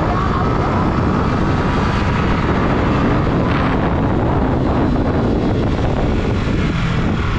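Yamaha MT-15's single-cylinder engine running steadily while the bike is ridden, with wind rushing over the camera microphone.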